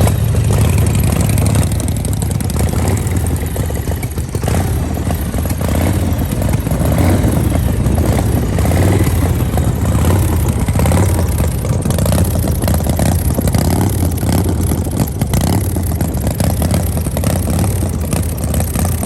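A loud engine running with a steady low rumble, its level wavering slightly.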